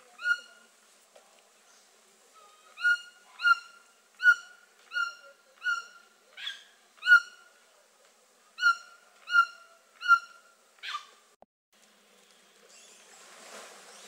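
A bird calling: a series of about a dozen short calls, all on the same pitch, roughly one every three-quarters of a second with one longer pause, stopping about eleven seconds in. A faint hiss rises near the end.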